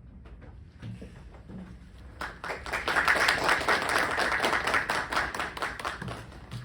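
Small audience applauding at the end of a piano performance, starting about two seconds in and thinning out near the end.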